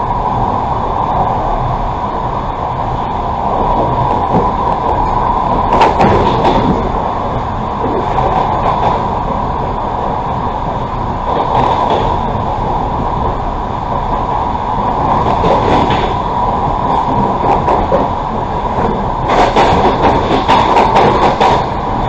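Passenger train running, heard from inside the carriage: a steady rolling rumble of wheels on rail with an even hum. A few times it swells into a rattling clatter, with a longer bout of it near the end.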